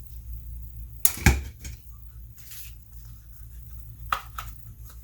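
Tabletop handling sounds from paper crafting with twine: a sharp knock about a second in, the loudest sound, then a few lighter taps and rustles, over a steady low hum.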